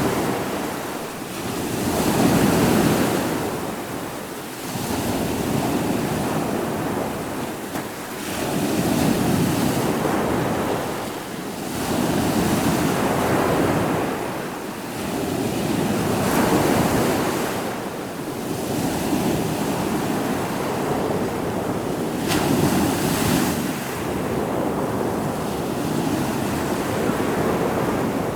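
Ocean waves breaking and washing on the shore, swelling and ebbing every two to three seconds, with wind.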